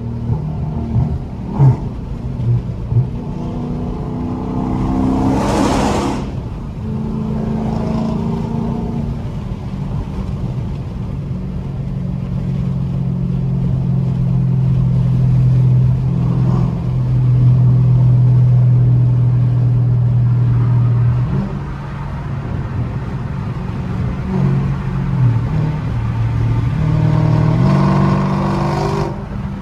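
Straight-piped Dodge Charger Scat Pack's 392 HEMI V8 heard from inside the car. It cruises with a steady low drone and climbs in pitch under acceleration twice, about five seconds in and near the end.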